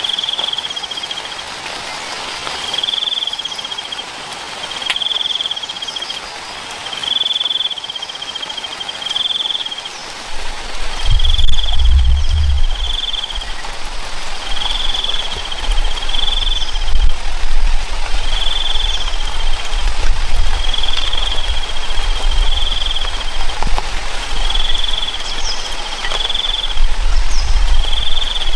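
Steady rain with a short, high chirping call repeated roughly every second and a half, typical of a calling insect. About ten seconds in, a low rumble joins and stays.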